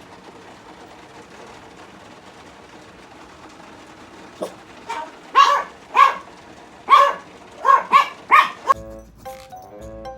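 Toy poodle barking: a quick run of about seven sharp barks, starting about four seconds in, over a steady hiss of heavy rain. Background music comes in near the end.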